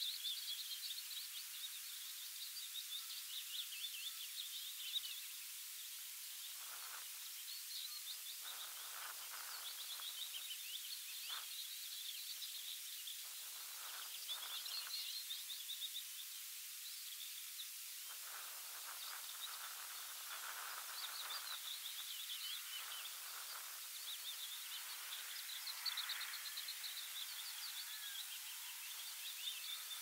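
Songbirds singing continuously in quick, high, chattering trills over a steady high hiss.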